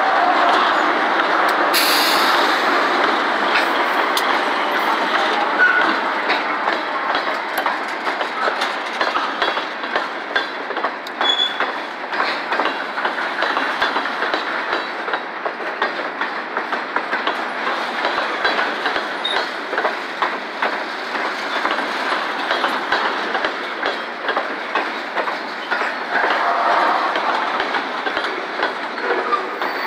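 A freight train passing at close range: a GE B23-7 diesel locomotive going by in the first few seconds, then covered hopper cars rolling past with a steady rumble and a continual clatter of wheels clicking over the rail joints.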